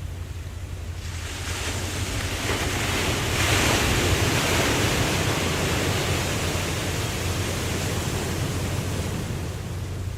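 Ocean surf: a wave breaks and washes in, swelling about a second in, loudest around four seconds, then slowly dying away, over a steady low rumble.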